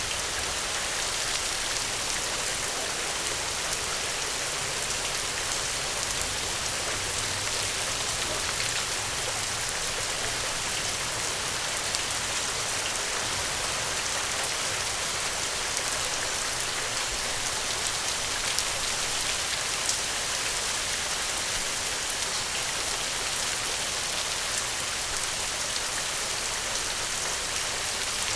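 Steady, gentle rain falling: an even hiss with scattered drop ticks.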